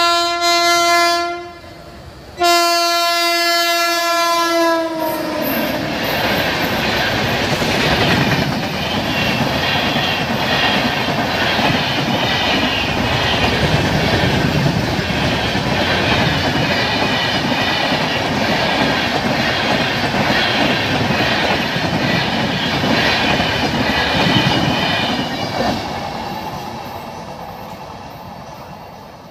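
An Indian Railways WAP-7 electric locomotive's horn sounds twice, the second blast dropping in pitch as it goes by. Then the express's coaches rush past at about 105 km/h, wheels clattering rhythmically over the rail joints, fading as the train moves away near the end.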